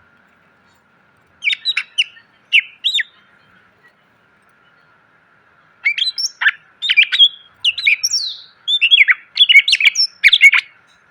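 Cucak ijo (green leafbird) singing: two short phrases of quick gliding whistles about a second and a half in, then a long, dense run of varied chirps and whistles from about six seconds in until near the end.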